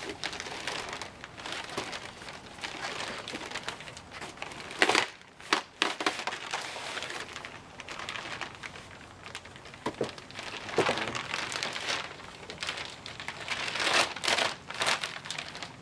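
Gift wrapping on a large package being torn open and crumpled by hand. It crinkles continuously, with a few louder, sharper rips about a third of the way in and again near the end.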